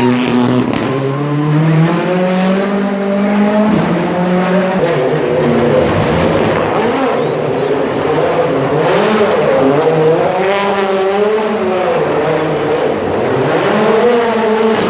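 Rally car's turbocharged four-cylinder engine revving hard, its pitch climbing and dropping several times as the car accelerates and shifts gears.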